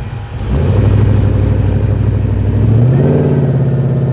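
Holden VK Commodore's engine running loud and rumbling at low speed, its revs rising about three seconds in and then holding.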